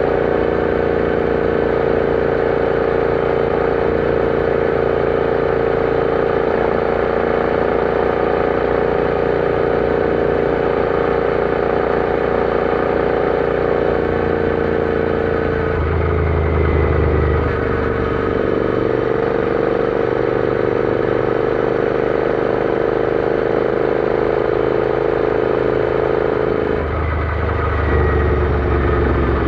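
Royal Enfield Interceptor 650's parallel-twin engine running under way at steady revs. About halfway through and again near the end the revs drop sharply, then climb back gradually.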